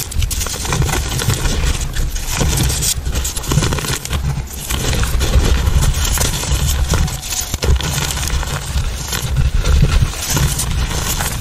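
Chalk being crunched and crumbled up close, a dense run of crackling crunches and scrapes as it breaks into powder.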